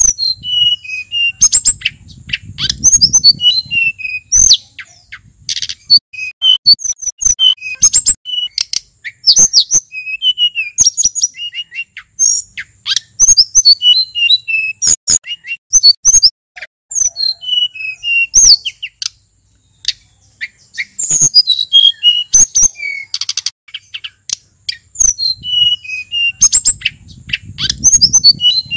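Male sulingan gunung songbird singing a rapid, varied run of whistled phrases with quick rising and falling notes, mixed with sharp clicking notes. A faint low rumble sits under the song about two seconds in and again near the end.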